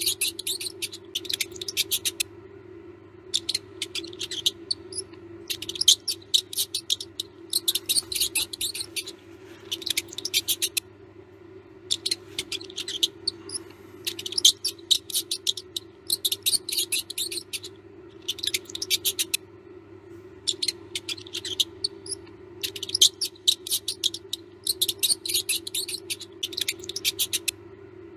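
Mouse squeaking in runs of rapid high-pitched chirps, each run lasting a second or two and repeating after short pauses, over a steady low hum.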